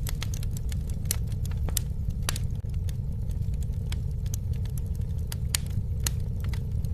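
Campfire burning: frequent sharp crackles and pops at irregular intervals over a steady low rumble of the flames.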